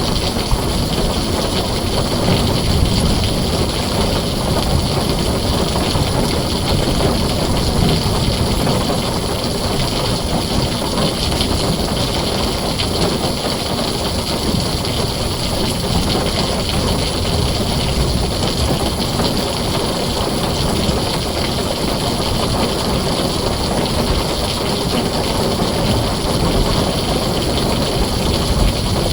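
Heavy rain pouring steadily on a tin roof, a loud, dense, even hiss.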